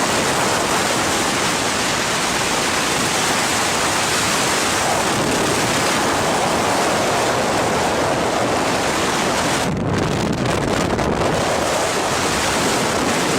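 Strong wind blowing hard across the microphone, a steady loud rush of noise.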